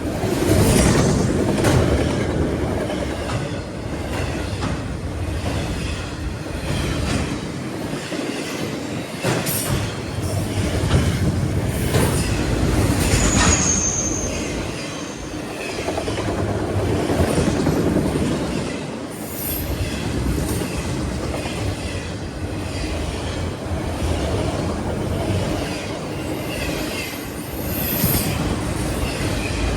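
A train rolling past at close range, rail cars rumbling steadily with repeated clacks of wheels over the rail joints, and a brief high wheel squeal about 13 seconds in.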